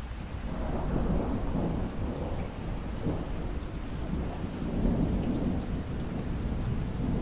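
Steady rain falling, with a low rolling rumble of thunder that swells in about half a second in and rolls on in waves.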